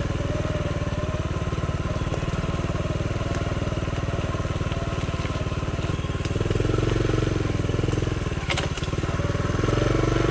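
Honda CT70's small four-stroke single-cylinder engine running as the bike rides a woodland trail, with two stretches of more throttle about six and nine and a half seconds in. There is a brief click about eight and a half seconds in.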